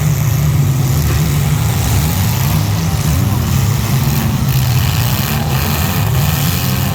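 Truck engine running loud and steady, with a constant low engine note and no clear rise or fall.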